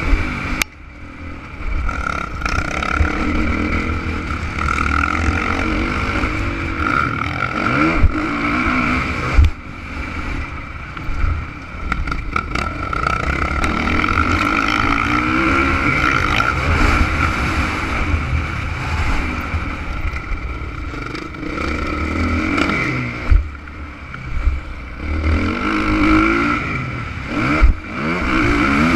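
Honda CRF450 motocross bike's single-cylinder four-stroke engine revving up and down again and again as it is ridden around the track, with a few sharp thumps along the way.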